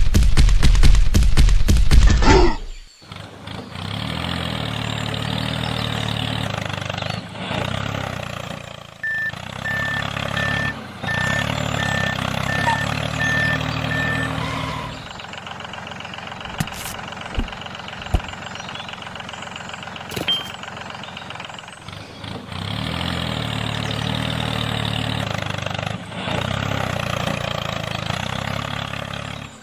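A vehicle engine running steadily, heard in several short cut-together segments, with a run of short, evenly spaced beeps partway through.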